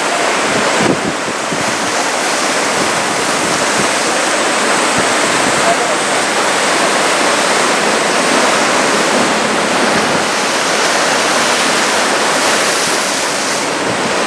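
Ocean surf washing and breaking in a steady roar, with wind buffeting the microphone.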